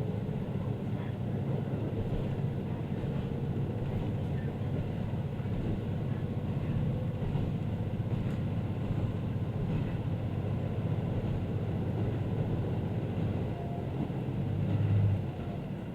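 Diesel railcar running along the line: a steady low rumble of engine and wheels on the rails, with a brief louder bump near the end.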